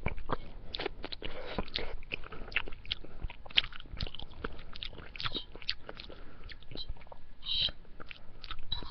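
A person chewing a mouthful of spaghetti: many quick, irregular small mouth clicks and crackles.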